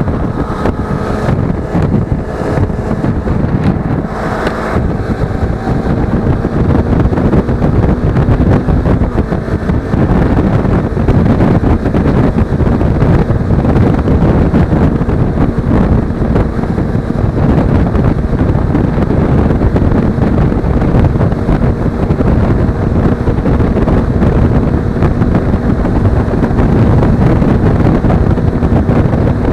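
Heavy wind rushing over an action-camera microphone on a moving Suzuki V-Strom 250 motorcycle, with the engine humming steadily underneath.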